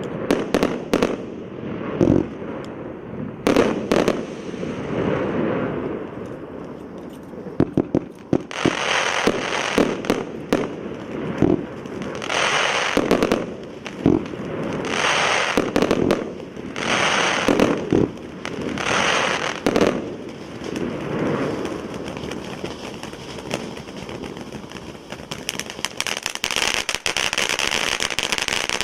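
Pyrotechnic ground fountain spraying sparks with crackling, in surges about every second or two. Near the end it settles into a steadier hissing spray.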